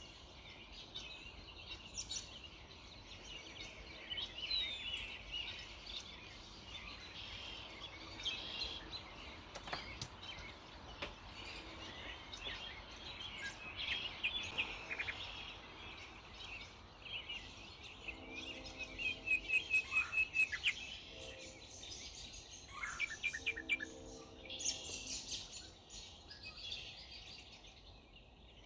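Early-morning dawn chorus: many small songbirds chirping and singing over one another. A little past the middle, one bird gives a fast run of repeated notes, and a lower call sounds twice in the background.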